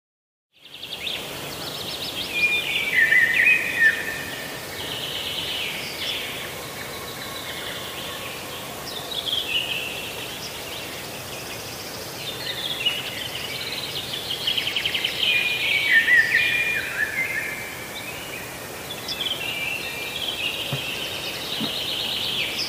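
Birds singing and chirping in overlapping, varied trills and calls, starting about half a second in after silence.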